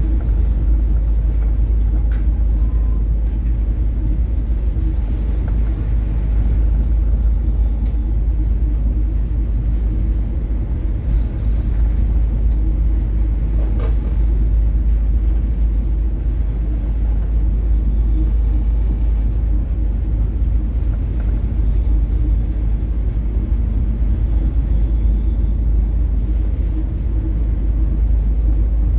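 Steady low rumble aboard a small coastal cargo ship underway in rough seas: the drone of the ship's engine and hull. A faint knock comes about fourteen seconds in.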